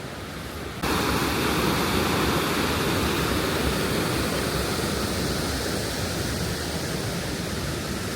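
Fast-flowing river water rushing steadily at the top of a waterfall, a strong current. It comes in suddenly and much louder about a second in.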